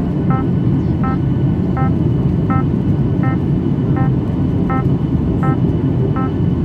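Steady low roar of a Boeing 737-800's engines and airflow heard inside the passenger cabin. A short pitched pulse repeats about every three-quarters of a second on top of it.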